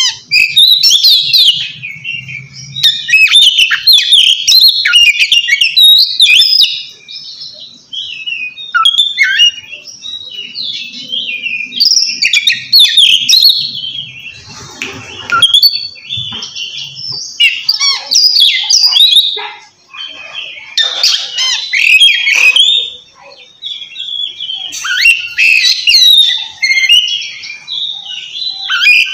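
Oriental magpie-robin (kacer) singing loudly in rapid runs of clear, sliding whistled notes with short pauses between phrases. This is the 'ngeplong' song of a bird calling out a rival.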